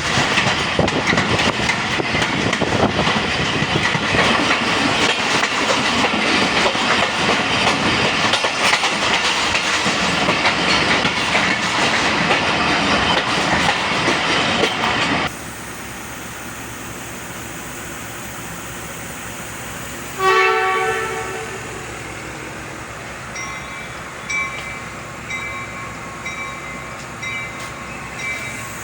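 Train passing close by: a loud, steady rumble and rattle of carriages on the rails that cuts off abruptly about halfway through. After a quieter stretch comes one short locomotive horn blast, then faint short high beeps repeating about once a second.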